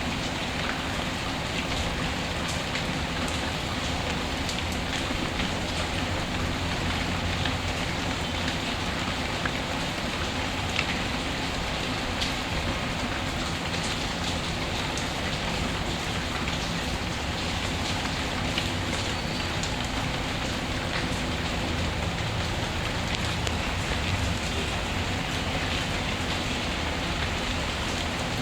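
Steady rain ambience with scattered faint crackles, from a mixed rain-and-fireplace ambience track.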